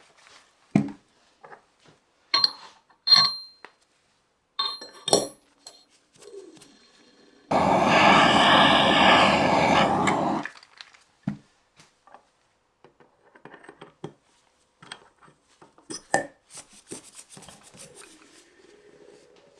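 Metal parts clinking and knocking as they are handled, with a steady rushing hiss lasting about three seconds midway, then a few light clicks.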